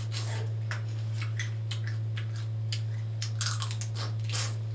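Close-up eating sounds: a mouth chewing a sauce-coated crayfish tail, heard as irregular short wet clicks, over a steady low electrical hum.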